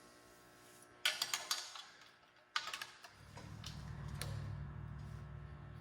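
Small metal exhaust-mounting parts clinking and rattling as they are handled and fitted, in two short bursts of clicks. A steady low hum sets in about three seconds in.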